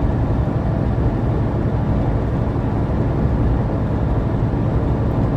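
Steady engine and road noise inside a moving vehicle's cab, a low, even rumble.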